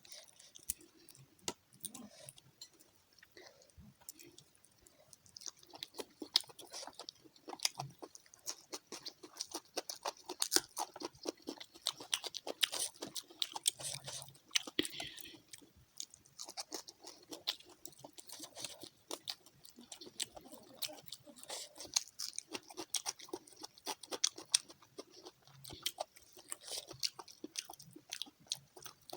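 Close-up chewing and crunching of fried fish: a steady run of wet, irregular mouth clicks and crunches.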